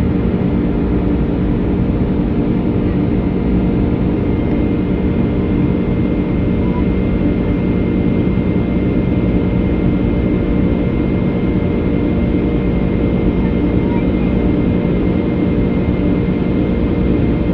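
Steady drone of an airliner's jet engines heard inside the cabin in flight, a constant low rumble with a few steady hum tones over it.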